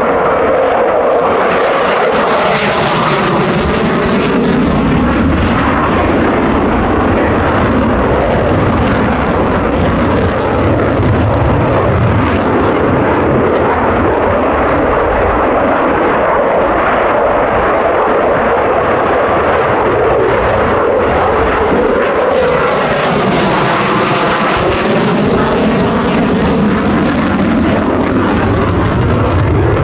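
Jet noise from Japan Air Self-Defense Force F-15 fighters flying, loud and continuous. The sound sweeps and swells as aircraft pass, once a few seconds in and again a little after the middle.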